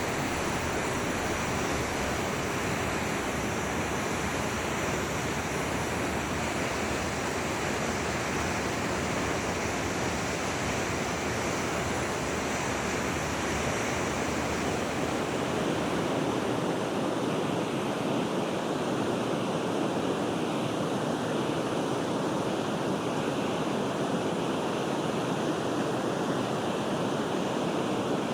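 Forest river flowing: a steady, even rush of water, turning a little deeper and duller past the halfway point.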